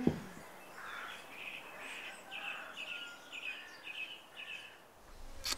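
Birds chirping faintly in a quick run of short, high notes. A sharp click comes just before the end.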